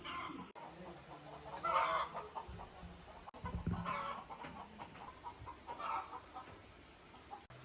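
Domestic chickens clucking, a handful of short calls coming every second or two.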